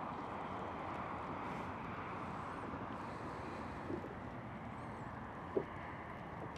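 Steady rushing background noise out on a fishing boat, with a faint knock about four seconds in and a sharper one about five and a half seconds in.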